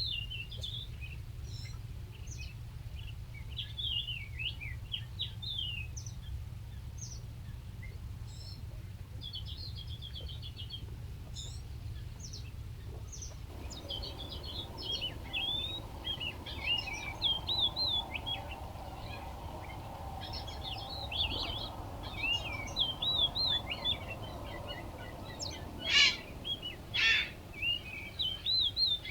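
Small birds chirping and twittering: many quick, overlapping notes that slide up and down, with two louder, sharp calls near the end. A low steady rumble runs underneath.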